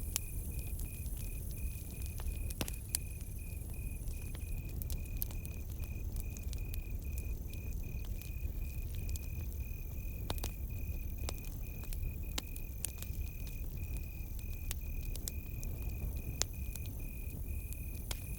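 Campfire crackling, with scattered sharp pops and a low rumble, over a steady, rapidly pulsing chirp of crickets.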